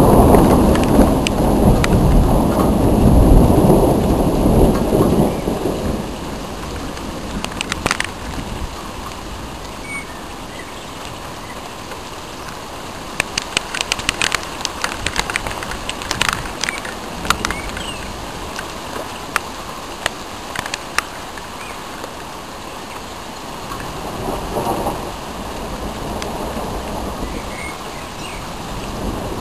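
Thunder rumbling and dying away over the first several seconds, then steady rain. Sharp ticks of drops hitting a nearby surface come now and then in the middle, and a faint rumble of thunder returns near the end.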